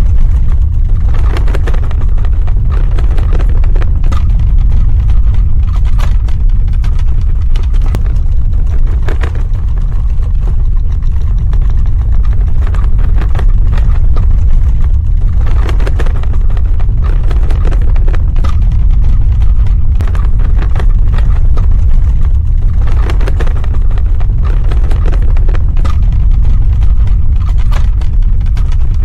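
Earthquake rumble sound effect: a loud, deep, continuous rumble with fine crackling, swelling roughly every seven seconds.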